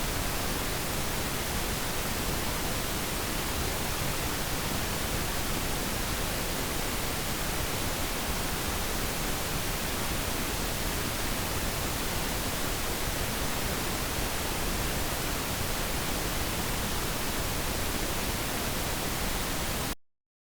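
Steady, featureless pink noise, a hiss with less treble than white noise, that cuts off suddenly near the end.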